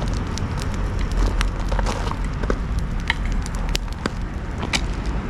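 Bonfire of dried logs and branches burning, the wood crackling with frequent sharp snaps over a steady low rumble.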